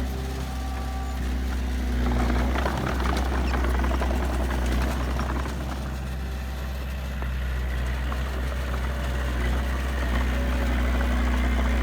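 Heavy diesel engine of earthmoving machinery running steadily, with a rougher, noisier stretch a couple of seconds in.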